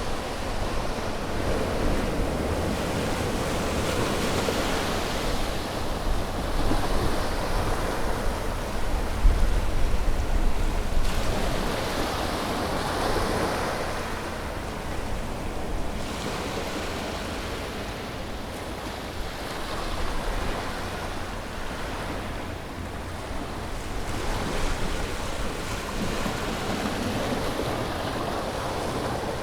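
Sea waves breaking and washing on a shore, a continuous surf noise that swells and ebbs every few seconds, with a low rumble and some wind.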